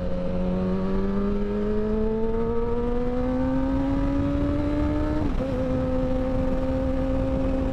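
Kawasaki Ninja ZX-10R's 1000 cc four-cylinder engine with an M4 slip-on exhaust pulling steadily up in pitch under acceleration. About five seconds in the pitch drops sharply at an upshift, then holds nearly level. Wind rumbles underneath.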